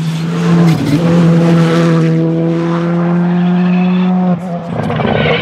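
Rally car engine held at high, steady revs, with a brief dip about a second in. It cuts out briefly near the end and then picks up again at the same pitch.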